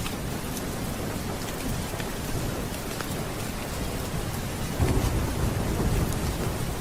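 Steady rain with a low rumble of thunder that swells about five seconds in.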